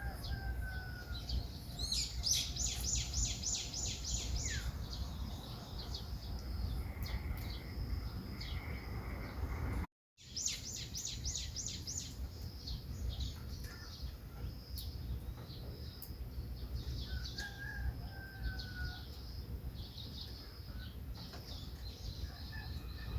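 Small songbirds calling and singing, with a rapid high trill of evenly spaced notes about two seconds in and again just after ten seconds, and short falling calls here and there, over a steady low outdoor rumble. The sound cuts out completely for a moment just before ten seconds in.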